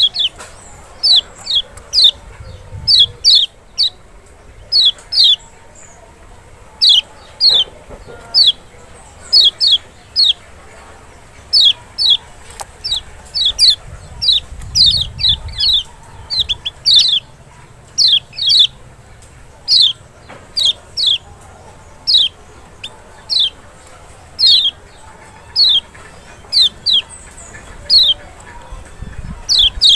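Lemon-bellied white-eye (Lombok kecial) calling: short, sharp whistled notes that sweep downward, often in pairs, repeating about once a second, played as a lure call to set other white-eyes singing.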